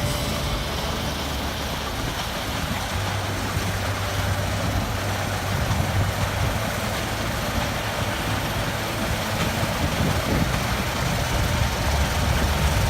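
Case IH Axial Flow 9240 combine harvester running steadily at work: a low engine drone under an even wash of machinery noise.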